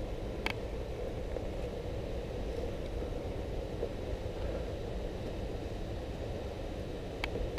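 Steady low rumble of wind on the camera's microphone, with two sharp clicks, one about half a second in and one near the end.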